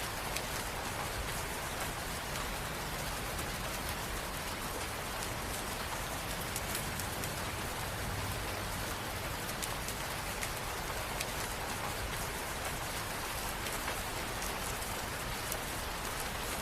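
Steady rain falling, a continuous even hiss with many fine drop ticks on hard surfaces.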